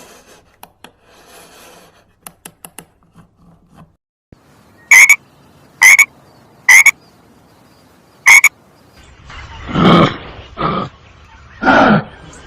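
Frog croaking: four loud, short calls about a second apart, followed near the end by three longer, lower calls.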